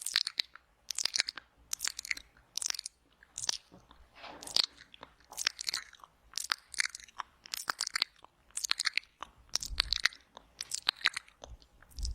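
ASMR wet mouth sounds close to the microphone: a run of quick, sharp wet clicks and smacks of lips and tongue in short bursts every half second or so, with a few low bumps near the end.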